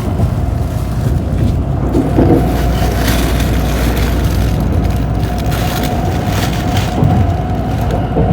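Tokaido Shinkansen train running, heard inside the passenger car: a steady low rumble of the running gear with a faint steady whine above it.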